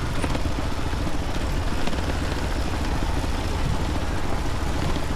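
Motorcycle running on the move: a steady low rumble with an even haze of noise over it.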